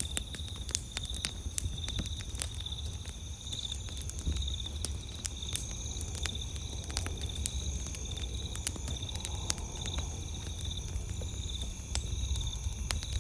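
Campfire crackling, with sharp irregular pops and snaps and a low rumble underneath. A steady high-pitched trill of night insects runs behind it.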